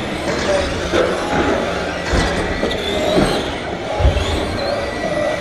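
Radio-controlled trucks racing around the track, their motors whining and changing pitch, with two low thuds about two and four seconds in.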